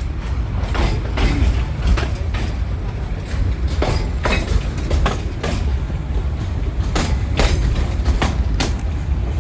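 Narrow-gauge railway train running, a steady low rumble with irregular clicks and knocks of wheels on the rails.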